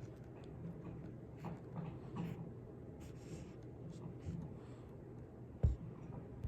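Small objects being handled at close range: light scraping and rustling with a few faint ticks, and one dull thump near the end.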